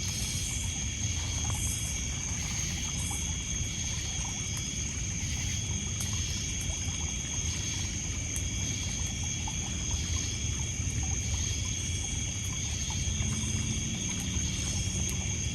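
Night lakeshore ambience: crickets and other insects trilling steadily at several high pitches over small waves lapping and trickling on a pebble beach, with a few faint crackles from a wood campfire.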